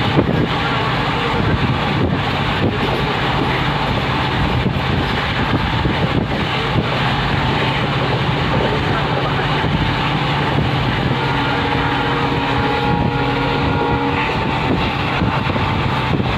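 Steady running noise of a moving passenger train heard from inside the coach: a constant low rumble and rush with wind buffeting the microphone.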